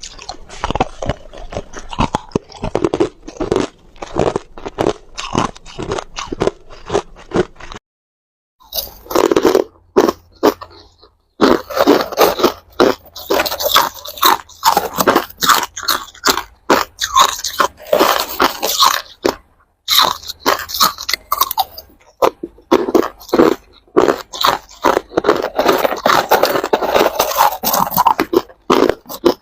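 Ice being bitten and chewed close to the microphone: loud, dense crunching and cracking as the ice breaks between the teeth, with a few brief silent breaks.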